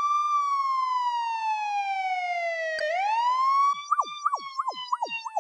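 Police car siren wail sound effect: a long slow fall in pitch, a click just before the three-second mark, then a quick rise. From about four seconds in, rapid downward swoops, about three a second, play over the falling wail.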